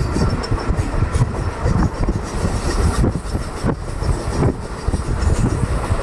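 Passenger train running along the track, its wheels rumbling on the rails with a few irregular knocks from the rail joints.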